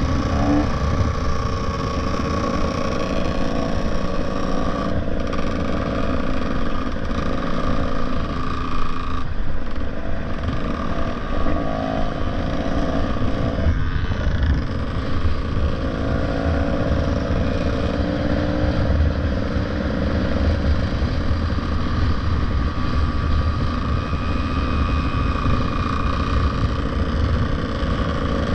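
Motorcycle engine running steadily at riding speed, its pitch drifting slowly up and down, under a constant rush of wind noise.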